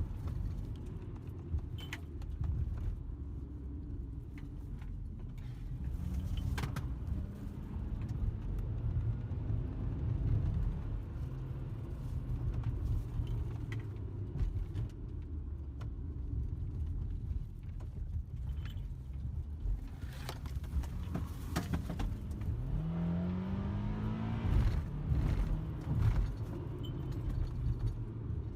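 Car engine and tyre noise heard from inside the cabin while driving, with a few sharp clicks or rattles. About three quarters of the way through the engine note rises briefly as the car accelerates.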